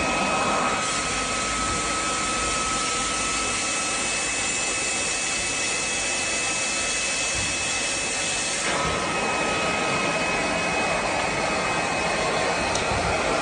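Steady whooshing whir of an electric motor-driven appliance running continuously, with two faint, high, steady whine tones over the noise.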